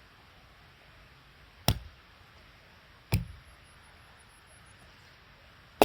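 Axe striking wood three times in separate, unevenly spaced chops, the last right at the end: firewood being split for a campfire.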